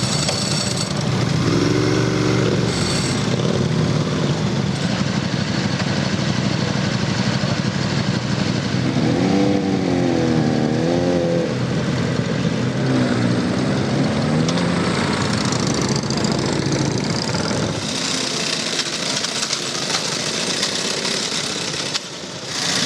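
Motorcycle engines running and idling, with the pitch rising and falling at times. The sound changes abruptly twice near the end.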